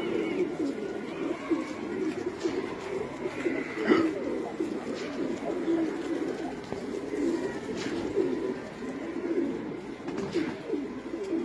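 A flock of domestic pigeons cooing together: many low coos overlapping into a steady chorus, broken by a few brief sharp clicks, the loudest about four seconds in.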